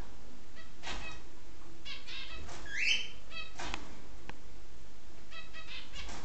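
Budgerigars calling and chattering: a run of short, separate chirps, with one rising call about three seconds in.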